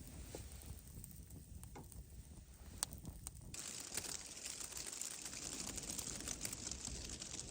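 Campfire crackling faintly, with scattered small pops and ticks; about three and a half seconds in, a steady soft hiss of fine crackle sets in.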